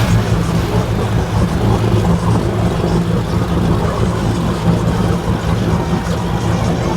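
Boat engines running steadily with a constant low hum.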